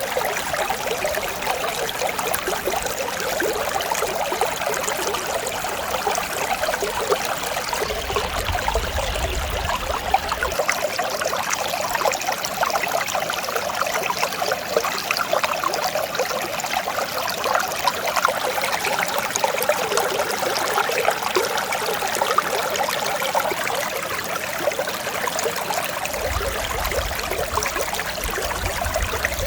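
Mountain stream flowing steadily, a continuous rush of moving water. A low rumble comes in twice: about eight seconds in and again near the end.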